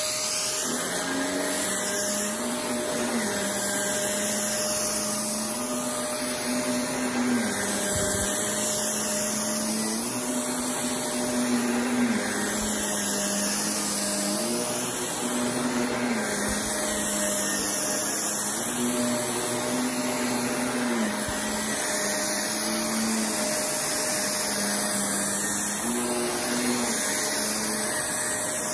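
Vacuum cleaner running steadily as it is pushed back and forth over a rug to pick up pet hair and dry soil. Its motor tone steps up and down every two to three seconds with each pass.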